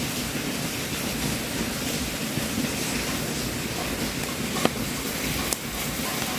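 Wood fire burning in a fireplace: a steady hiss with a few sharp crackles, the loudest about four and a half seconds in.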